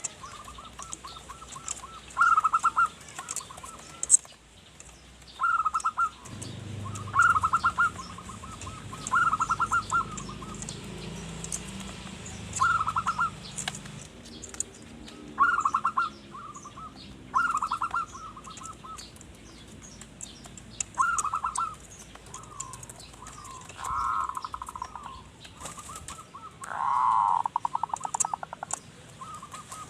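Male zebra dove (perkutut) singing: short phrases of rapid, stuttering coos, repeated every second or two. A low rumble runs underneath for several seconds in the first half.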